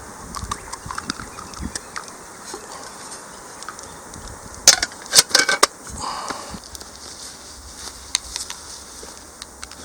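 Open wood fire crackling, with scattered sharp pops and a quick run of louder pops about five seconds in.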